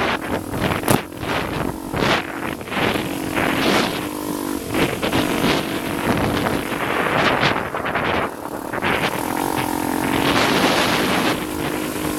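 Motocross motorcycle engine revving up and down, with wind buffeting the microphone.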